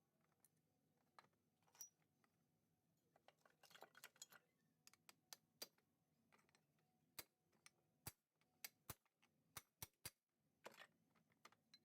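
Faint, sharp metal taps as a small bearing is knocked into place in a Yamaha RX135 engine's crankcase: a scatter of light clicks at first, then a run of about ten sharper taps in the second half.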